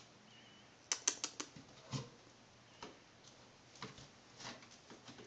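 Cat's claws catching and pulling at the open-loop carpet of a climbing post as it climbs: a quick run of scratchy clicks about a second in, a dull thump about two seconds in, then scattered scratches.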